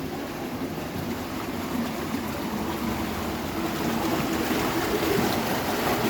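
Rushing, bubbling water of a fast mountain stream, growing steadily louder.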